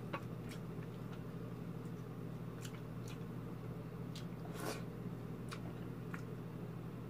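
Close-miked eating sounds: soft, wet chewing and lip smacks from a mouthful of rice and stewed milkfish eaten by hand, with scattered short clicks and one louder burst about halfway through. A steady low hum runs underneath.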